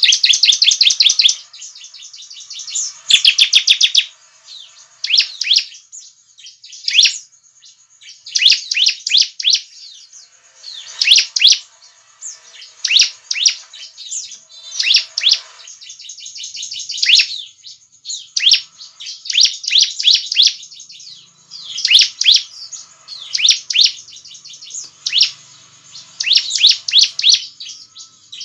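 Bar-winged prinia (ciblek) singing: loud phrases of rapid, high-pitched chirping notes, repeated every second or two.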